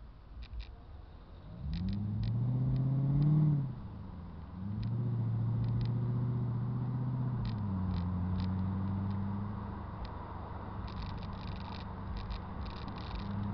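Mercedes-Benz W211 E55 AMG's supercharged V8 and exhaust under way. Under acceleration it rises in pitch and cuts off at about three and a half seconds. It comes back a second later as a steady drone while cruising, then drops in pitch and eases off after about ten seconds. Light clicks sound here and there.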